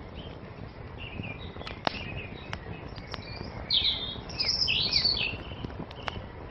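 Small songbirds chirping and singing, with a run of quick twittering song loudest around the middle, over a crackling campfire that gives a steady low hiss and a few sharp pops.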